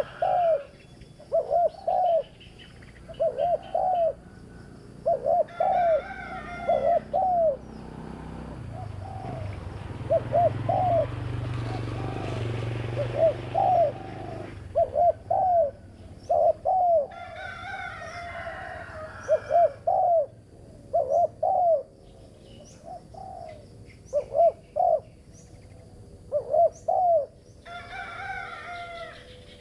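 Spotted dove (terkukur) cooing over and over in short paired coos, with another bird chirping in bursts between them. A low rumble swells in the background for several seconds in the middle.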